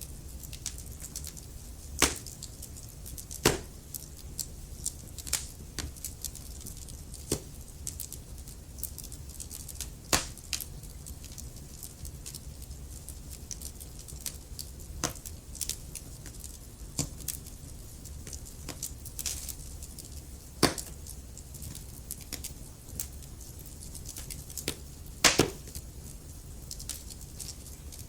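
Wood fire in a fireplace crackling, with irregular sharp pops from the burning logs over a steady low rumble of the flames; the loudest pops come about two seconds in, around ten seconds, and near the end.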